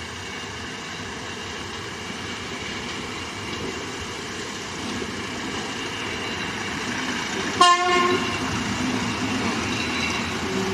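Steam train running and growing steadily louder as it approaches, with one short toot of its whistle about three-quarters of the way through.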